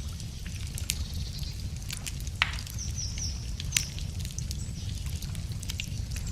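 Wood fire crackling with scattered quick pops, two sharper ones about two and a half and almost four seconds in, over a steady low rumble. A bird gives a few short high chirps about three seconds in.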